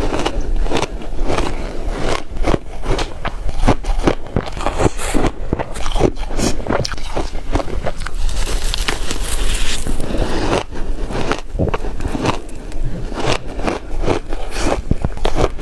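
Close-miked crunching of ice being bitten and chewed, in a rapid, irregular run of sharp crunches, with a stretch of brighter, gritty scraping about two-thirds of the way through.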